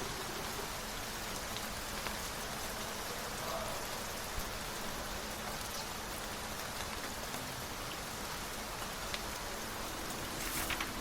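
Steady rain falling, an even hiss with a few separate drop ticks and a slightly louder patch near the end.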